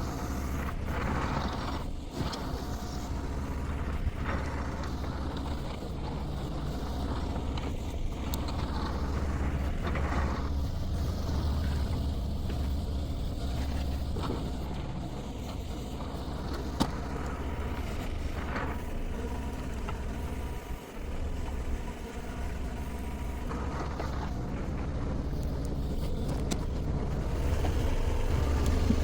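Shantui STE35SR mini excavator's diesel engine running steadily under hydraulic load, with occasional creaks and a sharp knock a little past halfway.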